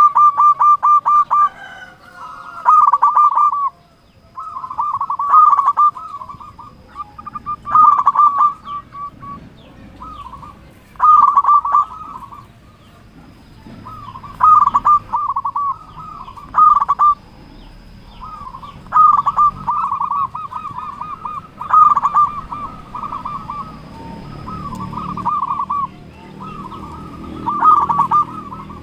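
Male zebra dove (perkutut) cooing over and over. Each call is a quick string of rolling, pulsed notes lasting about a second, repeated every two to three seconds.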